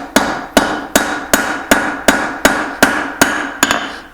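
Blacksmith's hammer striking a hot steel hammer head on the anvil in a steady rhythm, about two and a half blows a second, each blow followed by a short metallic ring: forging the faces of the hammer head.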